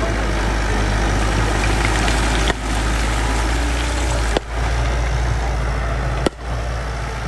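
Bulldozer's diesel engine running steadily with a deep low drone. A sharp click and a brief dip in level break it three times, roughly every two seconds.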